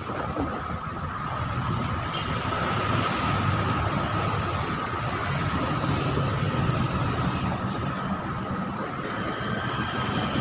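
Steady engine and traffic drone with a low rumble and a constant thin hum over it.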